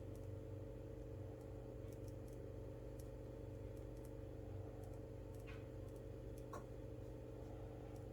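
Faint scattered clicks and two brief scratchy strokes about halfway through, from small desk work, over a steady low electrical hum.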